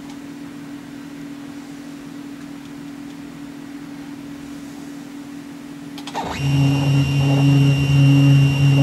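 Steady low electrical hum of workshop machinery. About six seconds in, a click, and a machine tool's electric motor starts, running louder with a steady hum and a high whine.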